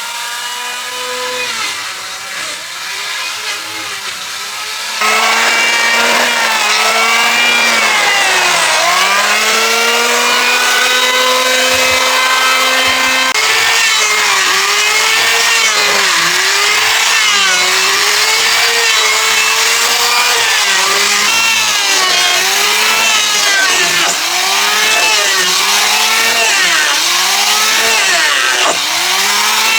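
A chainsaw cutting timber. The motor's pitch sags and recovers over and over as the chain bites into the wood, about once a second later on. It gets louder about five seconds in.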